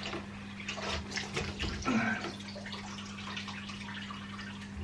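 Dirty water splashing and trickling out of a Candy washing machine that would not drain, in irregular gushes with a few clicks; the owner puts the fault down to the pump or filter.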